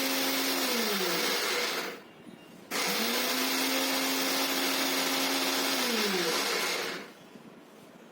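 Mixer grinder (an 850-watt LG blender) running with its small dry-grinding jar, grinding roasted cumin seeds to fine powder. It runs in two bursts, the first stopping about two seconds in and the second starting about a second later. Each time the motor hum falls in pitch as it winds down, and the second run's hum also rises as it spins up.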